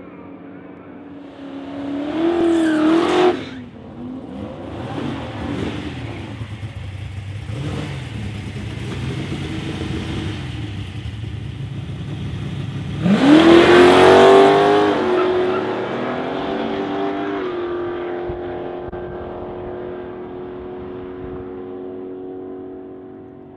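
Drag-raced 1970 Pontiac Firebird's engine: a short rev about two seconds in, a lumpy running rumble, then about halfway through a hard rev that rises sharply and holds a steady note, fading away as the car pulls off.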